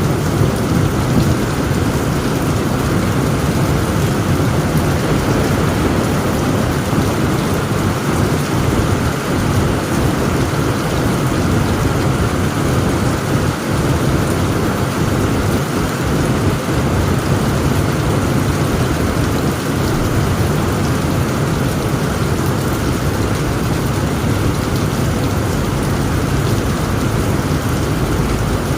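Heavy rain falling steadily on a tent roof, a dense, even wash of noise, with thunder rumbling low underneath and no single sharp crack.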